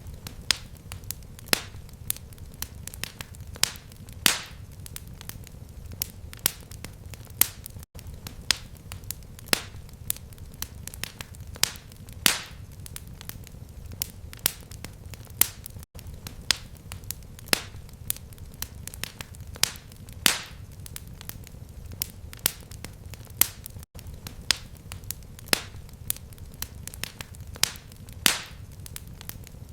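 Crackling fireplace fire: irregular sharp pops and snaps over a low steady rumble. The recording loops about every eight seconds, with a brief dropout at each join.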